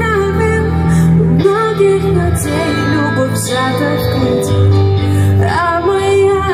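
Russian pop song playing: a woman's voice sings a wavering melody with no clear words over sustained bass and synth notes.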